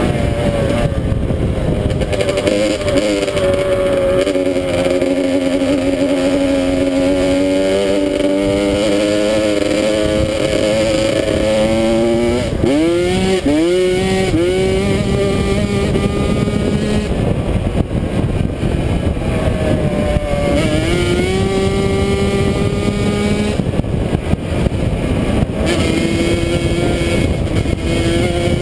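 Dirt bike engine running under way, its pitch climbing as it revs and dropping at each gear change, with several quick shifts about halfway through. Wind noise hisses over it.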